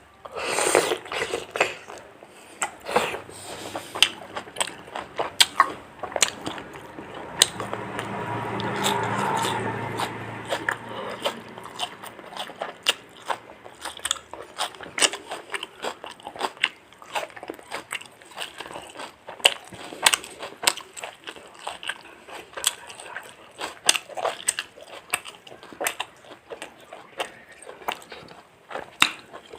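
Close-up eating of fried chicken: biting, crunching and chewing, with many sharp mouth clicks. A low steady hum swells and fades about a third of the way through.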